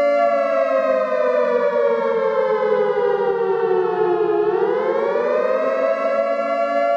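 Emergency fire alarm siren sounding a slow wail. Its pitch falls steadily for about four seconds, then swings back up over a second or so and holds at a steady high tone.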